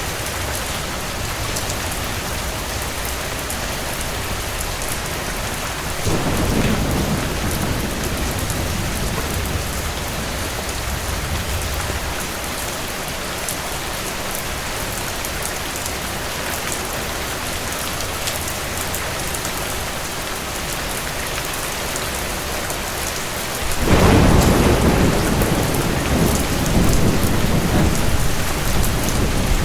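Steady, heavy rain falling, with two rolls of thunder: one about six seconds in that fades away over several seconds, and a louder one starting near the end that keeps rumbling.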